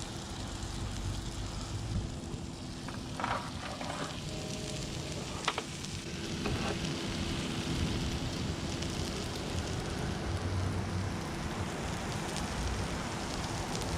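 Onions and mushrooms sizzling steadily as they fry in a cast iron pan, with a few short clicks in the first half.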